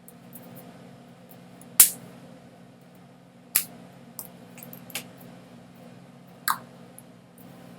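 A handful of sharp, irregular clicks over a steady low hum; the loudest click comes about two seconds in.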